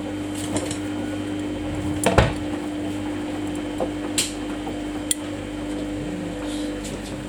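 Samsung washing machine running its Daily Wash 30 cycle: a steady hum with a few sharp knocks, the loudest about two seconds in.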